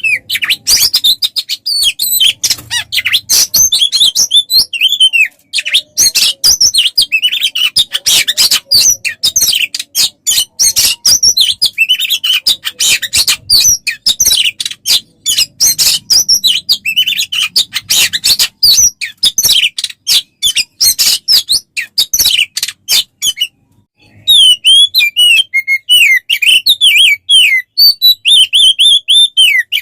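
Songbird song from a masteran tutor recording for magpie-robins: a fast, varied, unbroken stream of high chirps, trills and whistles. After a short break near the end it changes to a run of repeated down-slurred whistles.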